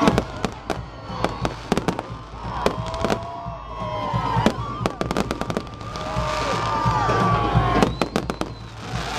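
Fireworks display: many sharp bangs and crackling reports, some in rapid clusters, with the voices of the watching crowd.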